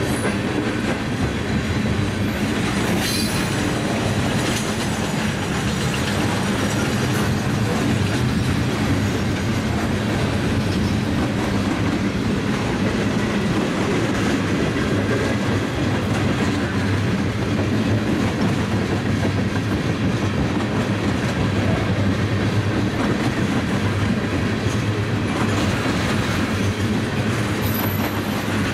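Freight train of tank cars and covered hoppers rolling slowly past: a steady rumble of steel wheels on rail with clickety-clack over the rail joints, and a brief thin wheel squeal near the end.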